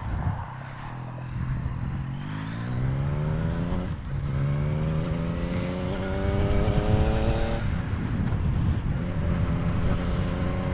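Yamaha MT-09's inline three-cylinder engine through an Akrapovic carbon full exhaust, accelerating up through the gears: the revs climb, drop at a shift about four seconds in and again near eight seconds, then climb once more. Wind rushes over the microphone throughout.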